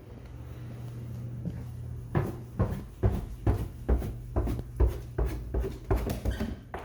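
Footsteps going down a flight of stairs: about a dozen even thuds, a little over two a second, starting about two seconds in, after a low steady hum.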